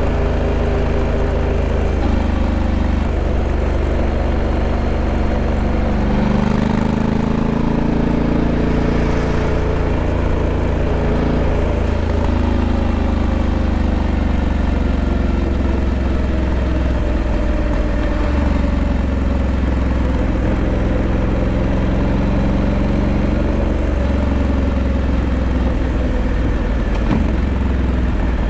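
Honda Africa Twin 1100's parallel-twin engine running steadily, its pitch rising and falling slowly as engine speed changes.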